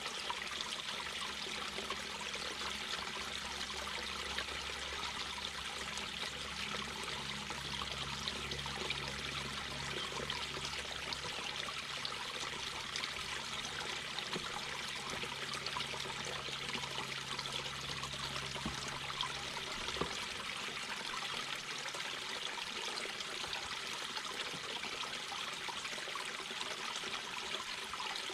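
Mountain brook babbling steadily over stones, a constant rushing trickle of water.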